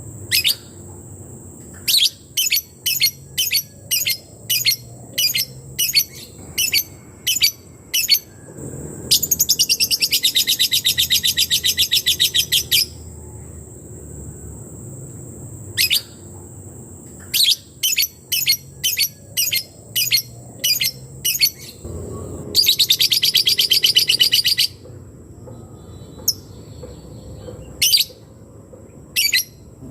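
Call of the lebet (labet) bird in its 'ngetik' form: runs of sharp, high chirps about two a second, twice breaking into a fast rattling trill that lasts a few seconds. This is a lure call meant to make a rival or a reluctant bird answer.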